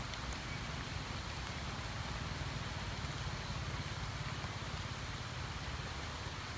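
Steady rain falling on a flooded pond and the surrounding grass and leaves, an even hiss of drops on water, with a steady low rumble underneath.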